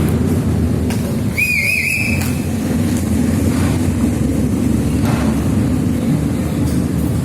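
Steady low rumble of heavy engines, with one short warbling whistle blast about a second and a half in.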